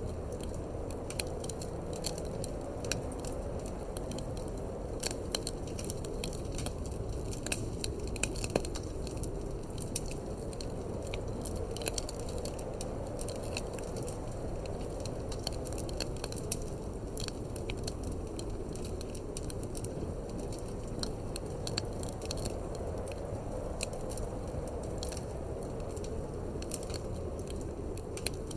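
Wood fire crackling in a fireplace, with frequent irregular sharp pops and snaps, over a steady low rush of wind.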